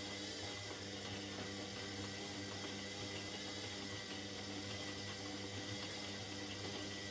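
Indesit 71252 washing machine running, a steady hum with several even tones over a constant hiss.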